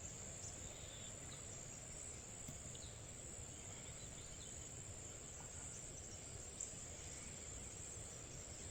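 Faint outdoor ambience: a steady, unbroken high insect trill, typical of crickets, over a low, even background rumble.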